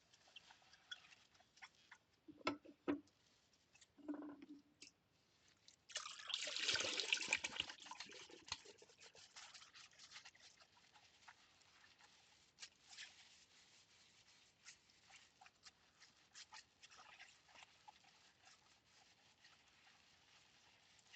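Ceramic bowls being hand-washed in a sink: a few knocks of ceramic, a louder rush of water-and-scrubbing noise for about two seconds around the middle, then faint scattered clinks and rubbing.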